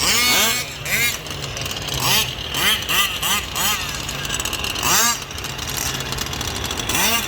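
Gas-powered large-scale RC cars with small two-stroke engines racing past one after another, each engine note rising and falling quickly in pitch as the cars throttle up and go by, about a dozen times.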